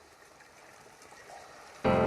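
Faint rain-like water hiss slowly swelling, then music with held chords starts suddenly near the end.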